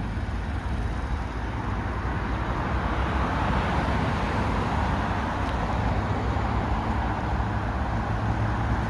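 Street traffic noise: a steady low rumble of passing road vehicles, growing louder over the first few seconds as traffic goes by.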